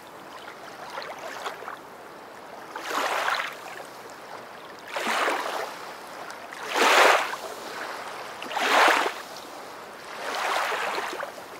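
Water washing in soft swooshes, six of them about two seconds apart, over a steady hiss; the middle ones are the loudest.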